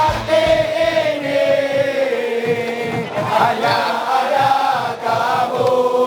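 A group of voices chanting a sung melody in unison, with long held notes.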